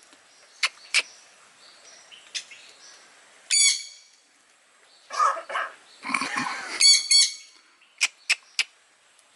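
A bird making coughing sounds: two rough, hoarse coughs in the middle, the loudest sounds here. Around them come sharp clicks, a short ringing call, two quick chirps, and three fast clicks near the end.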